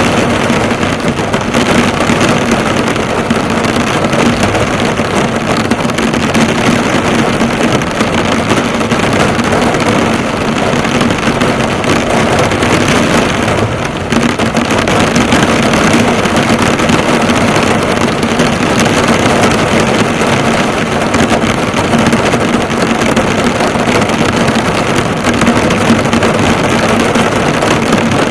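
Heavy rain pouring onto a car, the drops drumming steadily on the hood and body.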